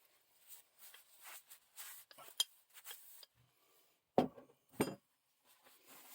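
Small metal parts and hand tools clinking and tapping, with two louder knocks about four and five seconds in.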